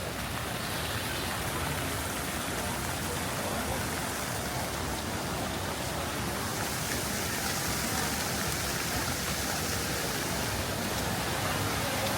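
Steady rain falling, an even, continuous hiss with no single sounds standing out.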